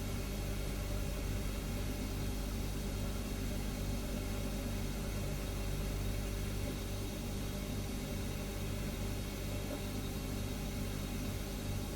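Refrigerator running with a steady, unchanging hum and an even hiss over it.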